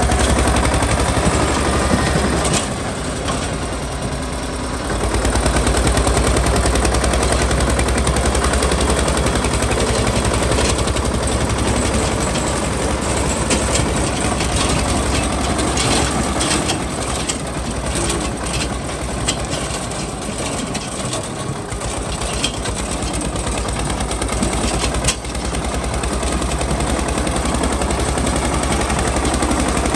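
Tractor diesel engine running with a fast, even clattering beat; it eases off briefly a few seconds in, then picks up again.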